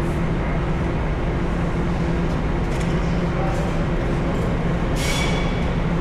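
Mobile crane's diesel engine running steadily with a low hum, with a short hiss about five seconds in.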